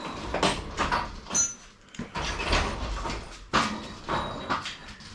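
Irregular metal clanks and scrapes of hand tools and engine parts being handled, about half a dozen sharp knocks, some with a short metallic ring.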